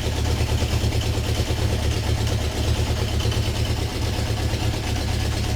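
Honda CB750K2's air-cooled inline-four engine idling steadily.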